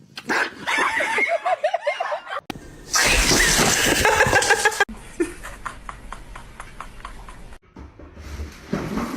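A dog vocalising, with wavering whines and yelps, in several short clips cut together. In the middle there is a run of regular clicks, about three a second.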